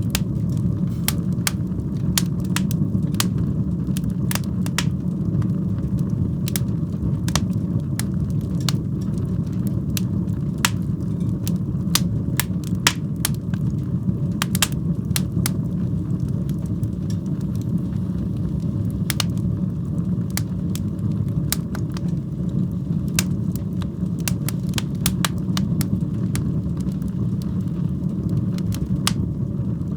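Wood fire burning in a fireplace: a steady low roar of flames with frequent sharp, irregular crackles and pops.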